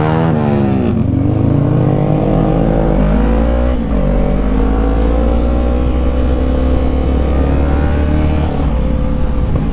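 Yamaha MT-03 motorcycle engine and exhaust under way: the revs drop for about a second, climb again, break off briefly about four seconds in as a gear changes, then pull up slowly and hold fairly steady.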